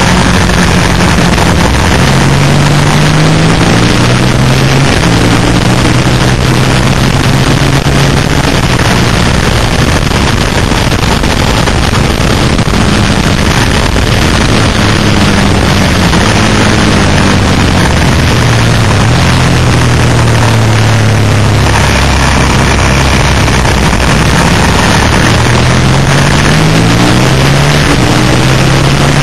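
Suzuki SV650's 90-degree V-twin engine running hard at track speed, heard onboard under heavy wind rush. Its note climbs in short steps through upshifts near the start and again near the end, and drops about two-thirds of the way through as the bike slows.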